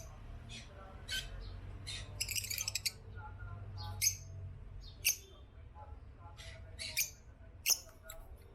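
African lovebirds giving short, shrill chirps and squawks at irregular intervals, with a quick chattering run about two and a half seconds in.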